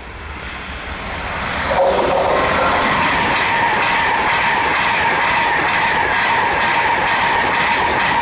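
Class 390 Pendolino electric train passing close at speed: the rumble grows over the first two seconds, then turns into a loud rush of wheels and air with a steady whine and rapid clatter as the carriages go by.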